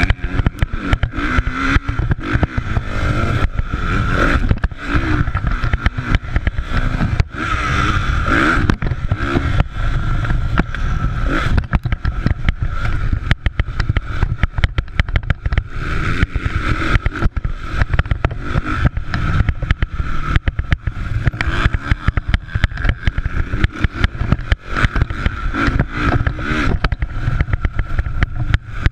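Motocross motorcycles racing, engines revving up and falling back over and over, over a heavy low rumble with frequent crackles.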